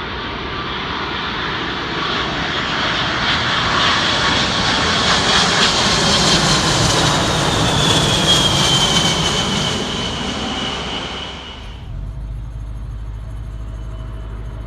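Arriving jet airliner passing on its landing approach. The engine noise builds to a peak, with a high whine that falls in pitch as it goes by. It cuts off suddenly near the end, leaving a low steady rumble.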